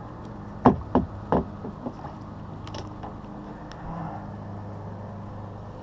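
Three sharp knocks in the first second and a half, with a few fainter ticks after, over a steady low hum: handling noise as a small bass is dealt with in a kayak.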